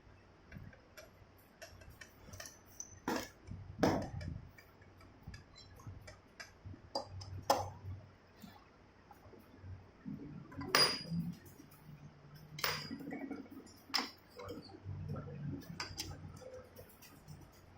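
Metal tools and engine parts clinking and knocking as a motorcycle engine is worked on by hand: a scattered series of sharp clinks, a second or two apart.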